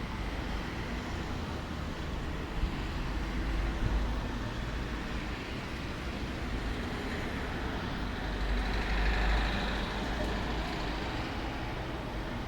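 Steady outdoor background noise: a low rumble with a hiss over it, swelling briefly twice.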